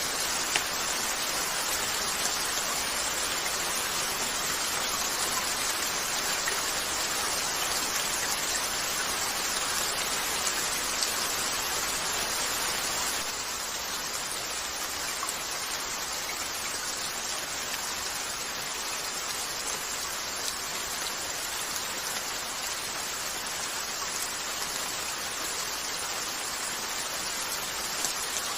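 Steady rain falling on a window, an even hiss with a few sharp ticks scattered through it, dropping slightly in level about halfway through.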